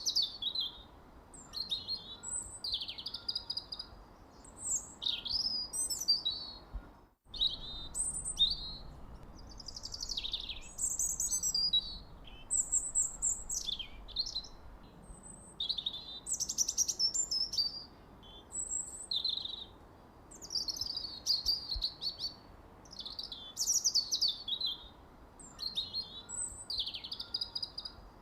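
Songbirds chirping and singing in quick, varied phrases of high chirps and trills, one after another almost without pause, over a faint steady background hiss. The sound breaks off briefly about seven seconds in.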